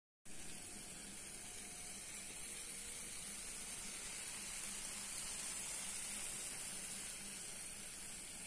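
Gram-flour omelette batter sizzling softly and steadily in butter in a nonstick pan as its underside cooks, before it is flipped.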